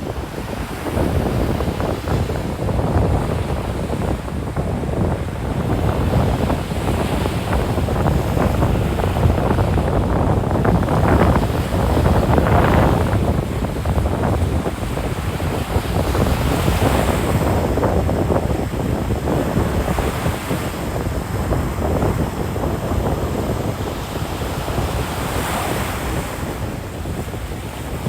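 Ocean surf breaking and washing up the beach, swelling several times as waves come in, with wind buffeting the microphone as a low rumble.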